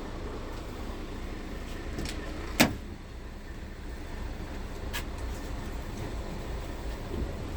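Scania R tractor unit running, heard as a steady low rumble, with a sharp loud click about two and a half seconds in and a fainter click about five seconds in.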